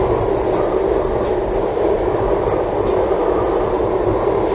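Steady road and tyre noise inside the cabin of a moving Toyota Tank minivan.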